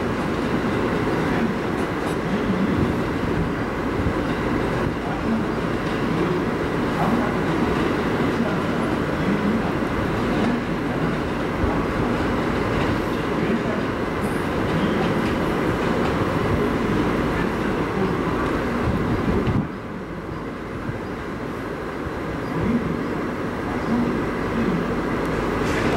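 JR West 207 series electric multiple unit running away along the tracks. The sound drops suddenly about twenty seconds in.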